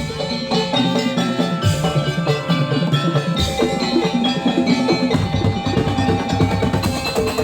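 Percussion-led music with ringing, mallet-struck metallic tones over drums. The deep bass drops out for the first three seconds or so, then comes back in.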